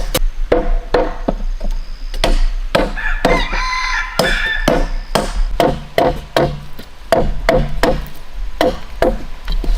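Repeated chopping strokes of a blade biting into wood, about two a second. A rooster crows about three seconds in.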